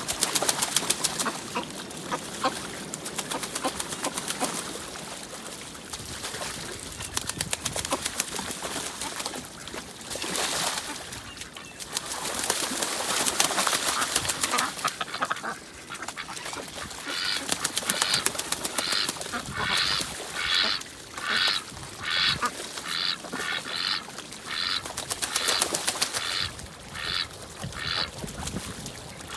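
Ducks quacking in a quick series of calls, about two a second, through the second half, over splashing water.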